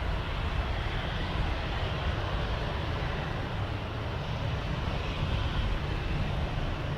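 Jet airliner engines running with a steady noise, mixed with a low, choppy rumble of wind buffeting the microphone.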